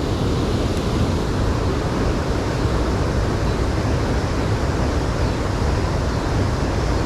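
Steady, loud rushing of water pouring over a spillway, an even noise with no breaks.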